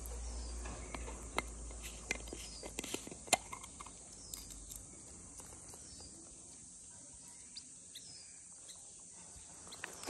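Small birds giving short, scattered chirps over a steady, high insect drone. There is a low rumble through the first half.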